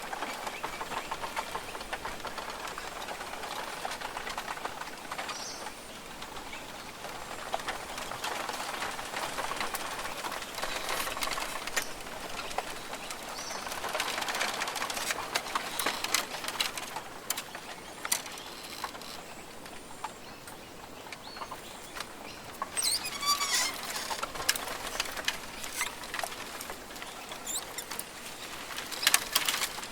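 Rainforest ambience: several birds calling over a constant rustle and patter of small clicks. A warbling bird call stands out about two thirds of the way through, and a louder flurry comes near the end.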